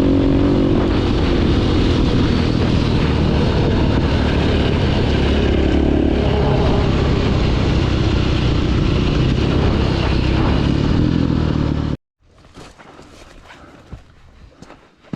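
Dirt bike engine running under riding load, close to the microphone with wind noise, its pitch rising and falling a little. About three-quarters of the way through it cuts off suddenly, leaving faint clicks and rustling.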